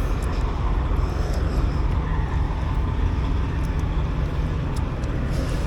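Semi-truck's diesel engine running steadily, a constant low drone with an even hiss of road or wind noise above it.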